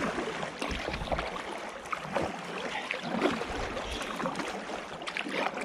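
Canoe paddle strokes dipping and splashing in river water, with uneven splashes and trickles throughout.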